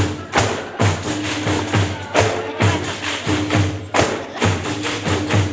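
Pandeiros (Brazilian frame drums with jingles) playing a steady rhythm together, with a deep thump about twice a second under the jingle strokes, and short held notes sounding underneath.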